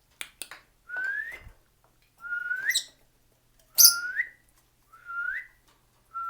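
A short whistle that rises in pitch, repeated five times about once every second and a quarter: a call to a pet cockatiel to get it to shake its crest. A few clicks come near the start, and two brief shrill high calls fall in the middle.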